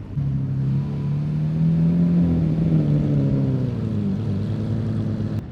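A car engine running hard under acceleration, its pitch rising a little and then falling away, cutting off abruptly near the end.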